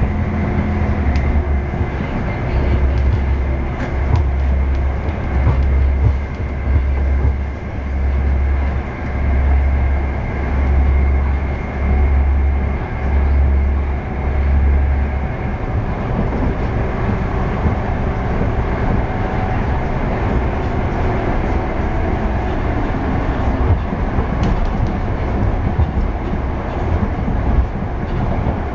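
Passenger train running along the line, heard from inside the carriage: a steady rumble of wheels on rail. Through the first half a low drone swells and fades about every second and a half, then the sound settles to an even rumble.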